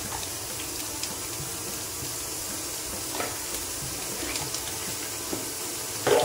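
Chopped carrots sizzling in hot ghee in a large kadhai, a steady hiss with a few light knocks, the loudest near the end.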